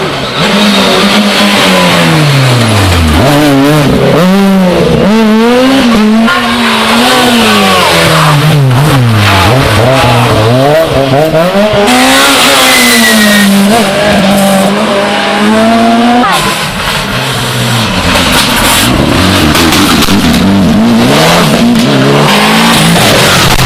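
Rally car engine revving hard, its pitch climbing and dropping again and again through gear changes and throttle lifts, with crackles. A brief high squeal comes about twelve seconds in.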